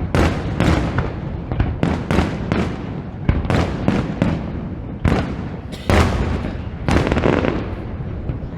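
Fireworks going off close by: a rapid, irregular string of loud bangs and crackles over a continuous rumble.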